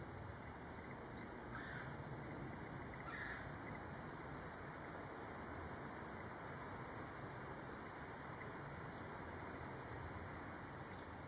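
Faint outdoor ambience: a steady hiss with short, high bird chirps about once a second.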